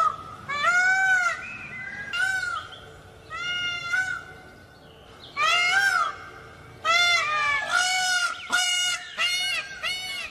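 Peacocks (Indian peafowl) calling: a series of loud calls that rise and fall in pitch, each under a second long, coming in quicker succession in the second half.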